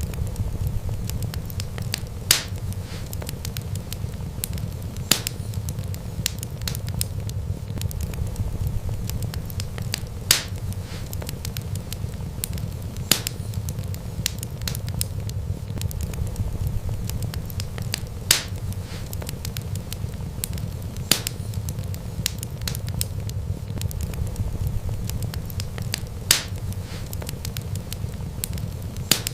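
Wood fire burning: a steady low rumble of flames with sharp crackling pops every few seconds.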